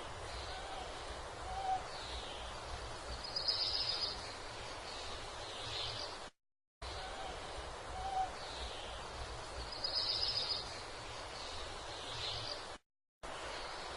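Steady outdoor background noise with a low rumble and short, faint high chirps, broken twice by brief dropouts to silence.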